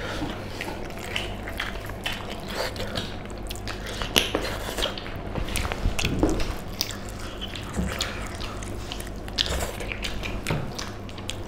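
Close-miked mukbang eating: two people chewing and biting into pork leg curry with rice by hand, with wet lip-smacks and small clicks at irregular intervals.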